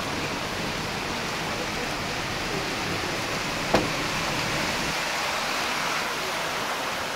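Heavy rain pouring down, a steady hiss, with one sharp click just past the middle.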